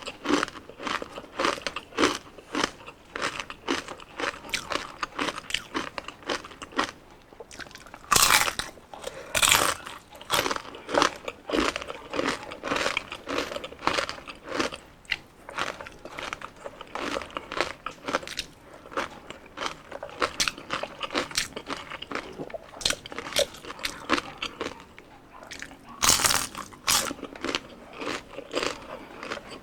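A person chewing crunchy deep-fried skin (crispy pata and chicken skin) with a fast run of crackling crunches. There are a few louder bites about eight and nine and a half seconds in, and again near the end.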